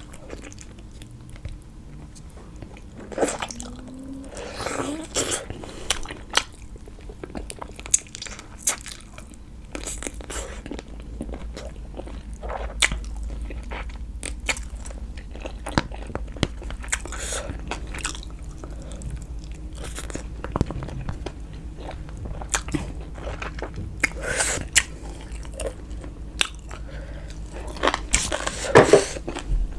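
Close-up eating sounds: a person biting and chewing food, with irregular crunches and small wet clicks scattered throughout.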